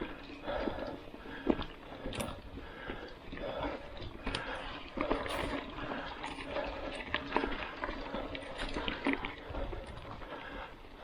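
A mountain biker's heavy, rhythmic breathing while riding, about one breath a second, with sharp clicks and rattles from the bike on a dirt road.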